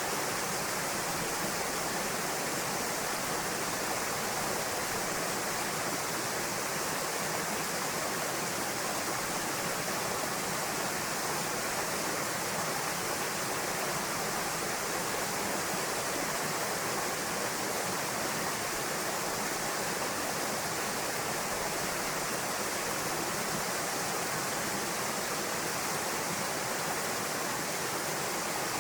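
Steady rush of falling water from a small waterfall pouring into a pool.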